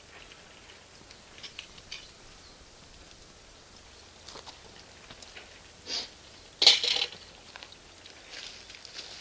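Bonfire of firewood and cut charcoal crackling, with scattered light pops and a louder burst of crackles about two-thirds of the way through.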